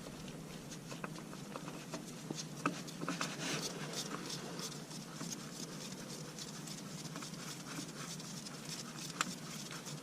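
Faint handling sounds of a new spin-on oil filter being threaded on by hand: scattered small clicks and soft rustling, with one sharper click near the end.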